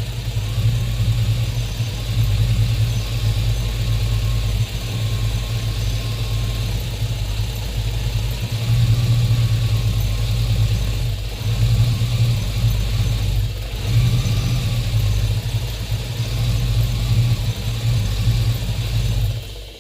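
Chevrolet 5.3-litre V8 idling unevenly, its level dipping now and then, then dying out suddenly near the end: the engine stalling, the intermittent stall-after-running fault being diagnosed.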